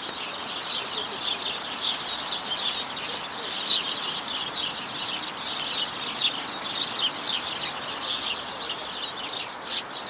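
A flock of small birds chirping busily in a tree: a dense, unbroken stream of short high chirps. A steady hum of city noise runs underneath.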